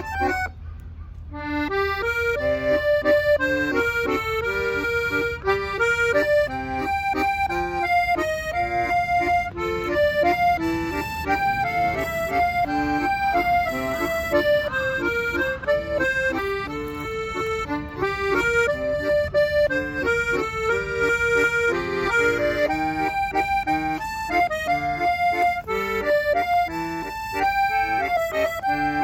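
A solo accordion playing a melody over a low bass-and-chord accompaniment. The playing breaks off briefly about a second in, then carries on.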